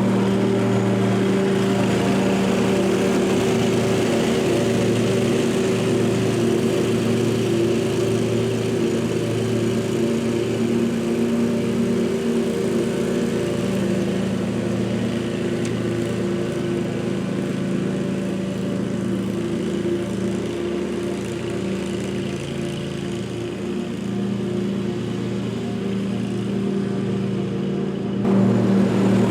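Lawn mower engine running steadily at constant speed, a little quieter about two-thirds of the way through and louder again near the end.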